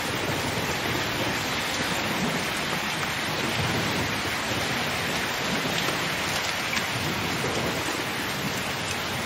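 Steady rain falling and splashing on hard outdoor surfaces.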